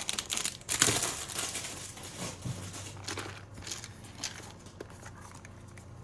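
Plastic packaging crinkling and rustling as items are handled, busiest in the first few seconds and then dying down.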